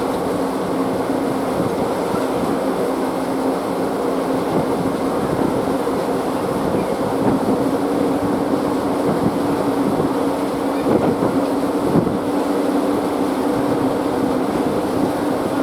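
A vehicle engine running steadily, with a constant droning hum.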